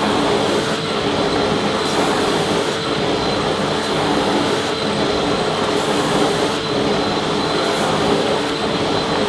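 Vacuum cleaner running steadily: an even rush of air with a constant hum under it and a faint high whine.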